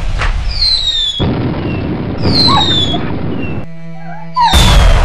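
Fireworks going off: several loud bangs in succession, each trailed by high whistles that fall in pitch. A short stretch of steady musical tones comes in just before the last bang.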